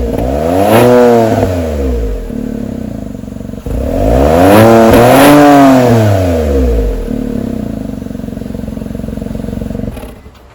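Mitsubishi Delica Mini's 660 cc three-cylinder engine through a Wills Win racing muffler, free-revving. A quick blip rises and falls, then a longer rev with two peaks sinks back to a steady idle, and the sound drops away near the end.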